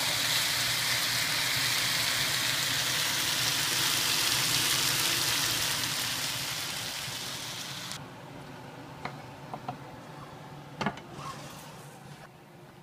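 Chicken strips, onions and bell peppers sizzling in a frying pan as a spatula stirs them. The sizzle dies away sharply about eight seconds in, leaving a few light clicks and knocks.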